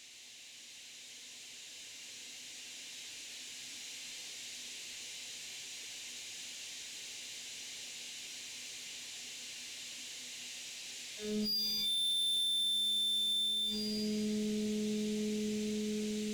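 A steady hiss, then about eleven seconds in a Ø12 solid carbide end mill cuts into the workpiece with a loud, steady whine of several pure tones. The tones shift about two seconds later and stop near the end. The whine is the vibration of the tool during wedge milling.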